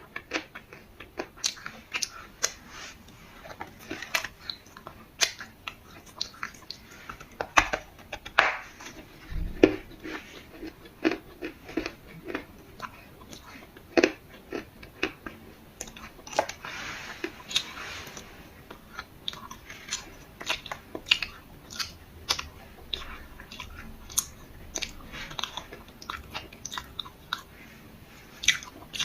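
Close-up chewing and biting of dry black clay: irregular sharp crunches and crackles, several a second, with a longer grinding crunch about two-thirds of the way in.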